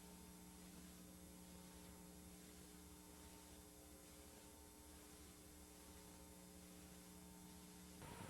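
Near silence: a faint steady electrical hum over light hiss, cutting off just before the end.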